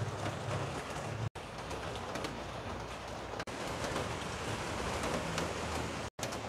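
Steady rain falling, with scattered drips ticking on the balcony's metal grille and ledges. The sound cuts out briefly twice.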